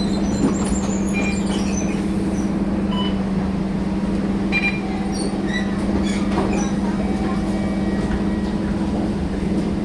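Scania K230UB bus's diesel engine running with a steady, even hum, its pitch unchanged, with scattered light clicks and rattles over it.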